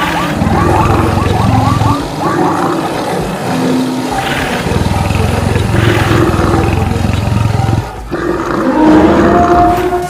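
Stampede sound effects: a dense low rumble of running animals under layered roars and other animal calls, dipping briefly about eight seconds in before a fresh burst of calls.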